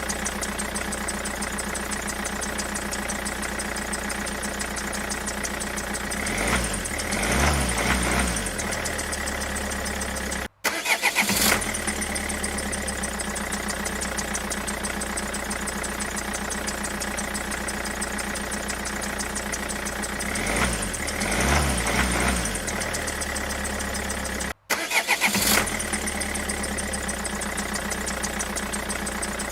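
Steady engine running sound with a swell of revving twice and two abrupt cut-outs, each followed by a short loud burst like a restart; the whole pattern repeats about every 14 seconds, like a looped engine sound effect.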